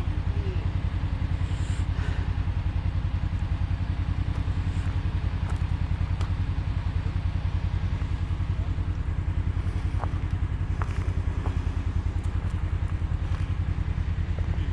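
Tow truck engine idling steadily, a low even throb with a few faint ticks over it.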